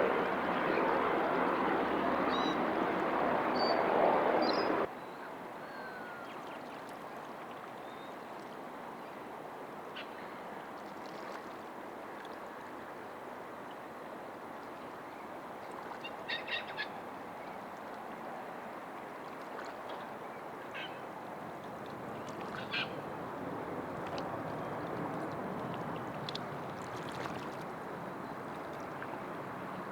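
Jet aircraft noise that cuts off abruptly about five seconds in, leaving a quieter steady background with a few short bird calls, three in quick succession past the middle.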